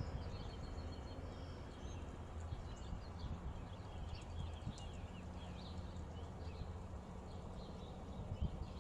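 Birds chirping in quick short calls over a steady low background hum.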